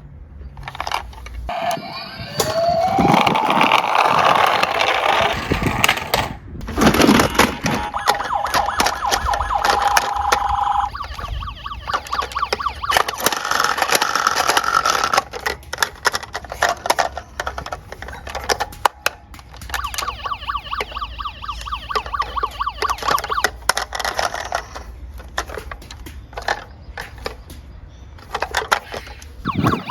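Police-style siren tones, rising wails at first and then steady held tones, over a constant rapid clicking and rattling of small die-cast toy cars rolling and clattering down a slope.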